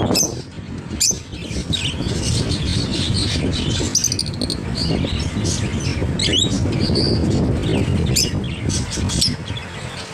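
Caged pet birds chirping and squawking in short, high, repeated calls, over a steady low rumble of background noise.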